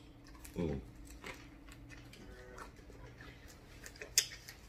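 Close-up eating sounds of a man chewing a bite of sub sandwich: soft, scattered mouth clicks and lip smacks, with a brief hummed 'mm' about half a second in and a sharper smack near the end.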